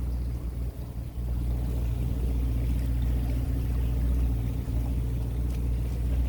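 A small fishing boat's motor running at a steady speed, a low, even drone, under way across the water.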